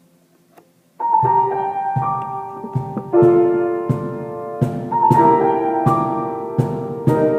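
A live band starts playing about a second in: sustained piano chords over a steady drum beat, with sharp hits roughly every half second.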